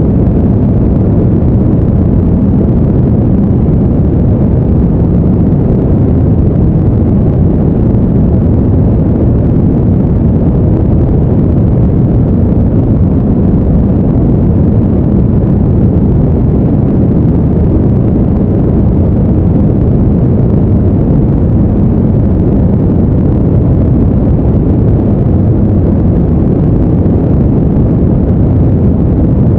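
Steady, deep rumbling noise with no tones or changes, like the brown noise laid under sleep videos.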